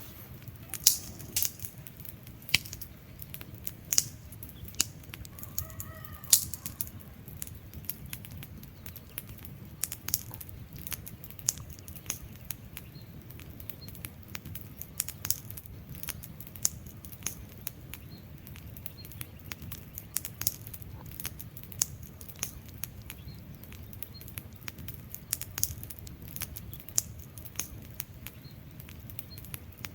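Wood fire crackling, with frequent irregular sharp pops over a steady low rumble of flames. A short faint whistling tone about six seconds in.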